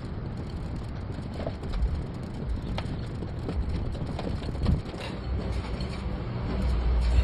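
Scattered mechanical clicks and knocks over steady background noise, with a low rumble swelling near the end.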